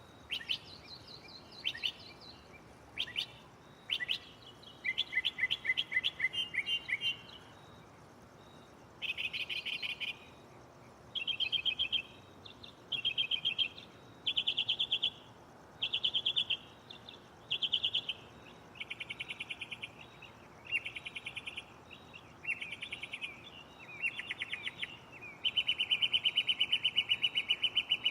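Northern mockingbird singing its shuffling medley of borrowed phrases. Each phrase is a rapid string of repeated notes about a second long, sung over and over with short pauses, with a longer unbroken run near the end.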